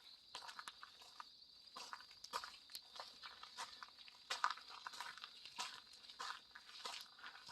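Footsteps crunching on a forest path at an easy walking pace, about one step every half second or so.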